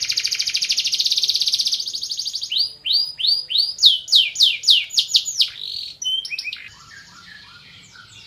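Domestic canary singing: a fast, buzzing high trill, then a run of quick down-slurred whistled notes, dropping to softer, quieter twittering about two-thirds of the way in.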